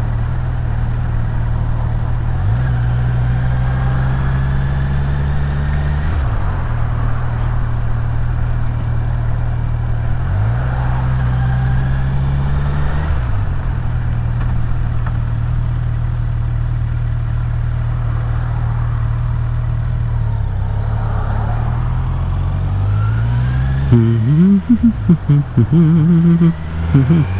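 Kawasaki Z900's inline-four engine running under way, its note rising and falling a few times with the throttle. About three seconds from the end the sound turns choppy and uneven.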